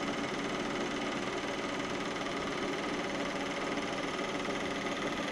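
Lada Priora's VAZ-21127 engine idling cold with a steady, rapid ticking from the evaporative canister purge valve (adsorber valve). The owner says this is the purge valve, not the hydraulic lifters or the piston group. He calls it harmless: it appears in cold weather and goes away as the engine warms.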